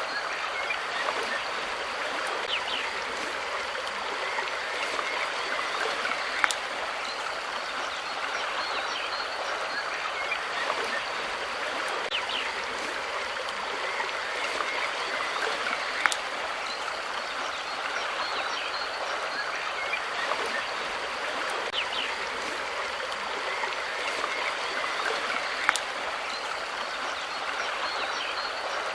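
Steady babble of running water, like a stream, with three sharp clicks about ten seconds apart.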